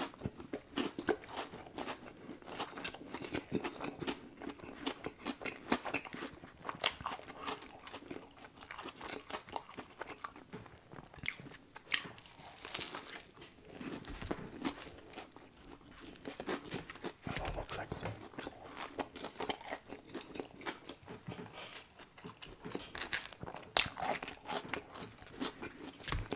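A man chewing and crunching a mouthful of fried chicken sandwich close to the microphone, with many small irregular crunches.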